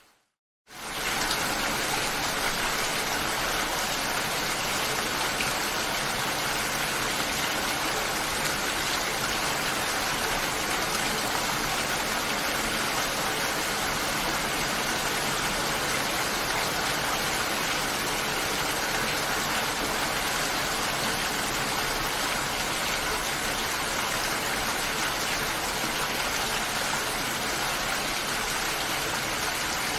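Steady, even rainfall. After a brief silence at the very start, it cuts back in abruptly and holds unchanged.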